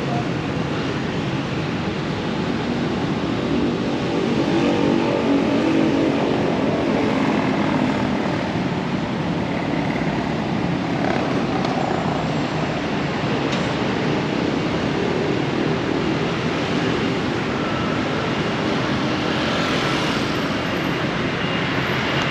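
A dense stream of motor scooters passing together, many small engines running at once over steady traffic noise.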